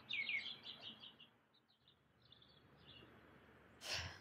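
Faint birds chirping in quick short calls, a close run at first and a fainter run later, with a brief noisy burst near the end.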